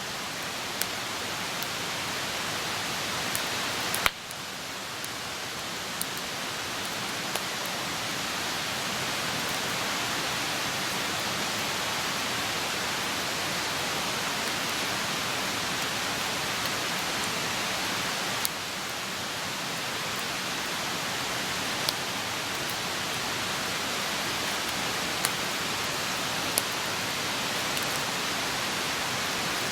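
Wood campfire burning with a steady hiss, broken by scattered sharp pops and crackles, the loudest about four seconds in. The hiss drops suddenly twice, about four and eighteen seconds in, and slowly builds back up each time.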